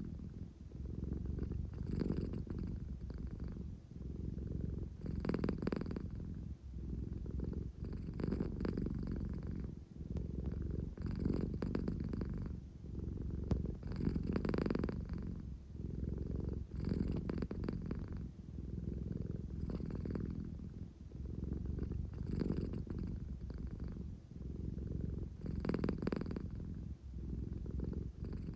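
An American Shorthair cat purring steadily, a low engine-like rumble that swells and fades with each breath about every three seconds: the drowsy purr of a sleepy cat seeking affection.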